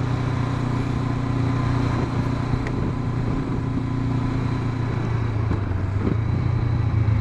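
Honda CB500X's parallel-twin engine running steadily under a rider, its note sagging a little about three seconds in and building again near the end.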